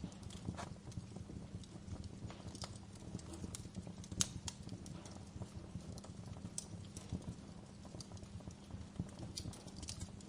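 Wood fire burning in a fireplace, crackling with irregular pops and snaps over a steady low rumble of the flames; the sharpest pop comes about four seconds in.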